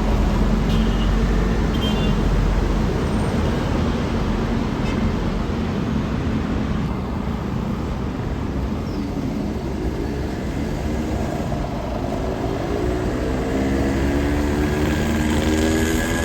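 Road traffic: steady engine and tyre noise, with a vehicle's engine note rising in pitch during the last few seconds as it accelerates.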